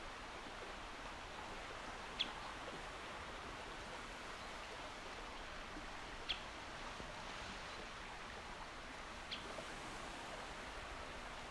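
Steady, gentle wash of a calm sea, an even hiss of water. Three short, high bird chirps stand out, about two, six and nine seconds in.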